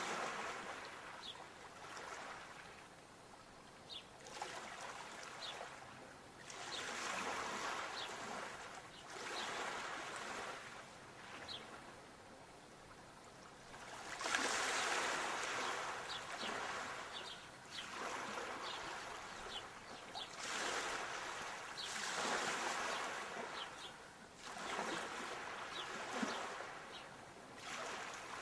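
Sea waves washing in and drawing back, the rush of water swelling and fading every two to three seconds, with bigger surges from about halfway through.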